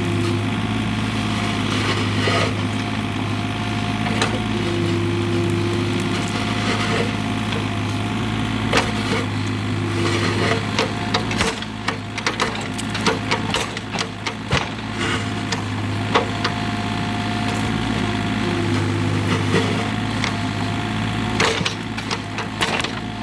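A steady low hum with a higher tone that comes and goes every few seconds, and many irregular sharp knocks and clicks from about eight seconds in.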